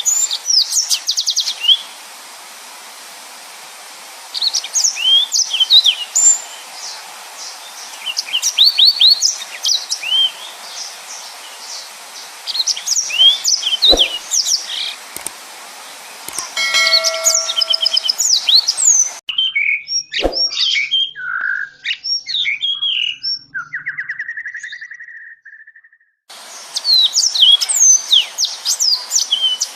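Yellow-fronted canary (Mozambique canary) singing in repeated bursts of fast, high chirps and trills, with short pauses between phrases, over a steady hiss.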